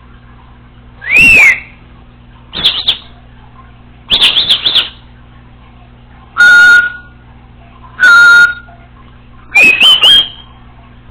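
Congo African grey parrot giving a series of six loud whistles and squawks, each under a second long and about one to two seconds apart. Some are pitched whistles that rise and fall, others steady held tones.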